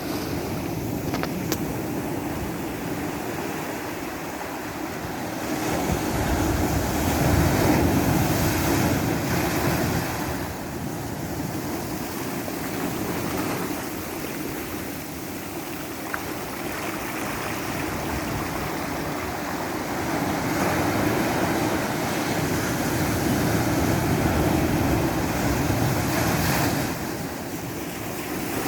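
Ocean waves washing in, a continuous surf that swells louder twice, as sets of waves break.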